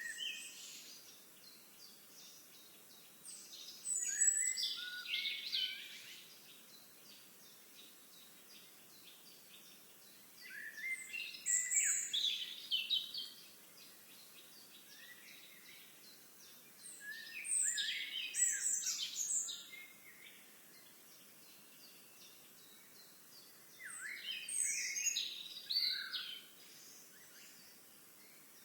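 A songbird singing, each song a quick warbling phrase of two to three seconds, repeated four times about seven seconds apart, over a faint steady outdoor hiss.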